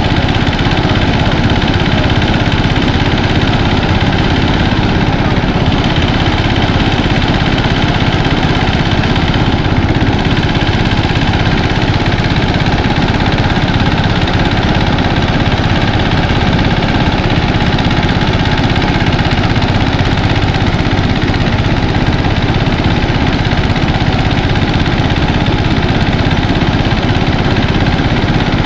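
Mini rice thresher running steadily, its engine and threshing drum going without a break as rice stalks are fed through.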